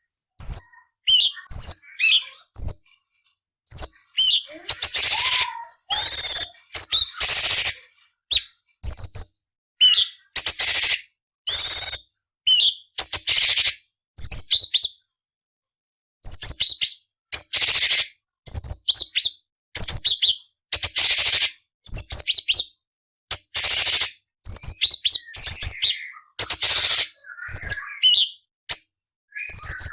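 Cucak cungkok songbird singing a fast, varied string of short, sharp phrases. Quick high whistled notes are mixed with harsh, raspy screeching bursts. It pauses for about a second and a half near the middle.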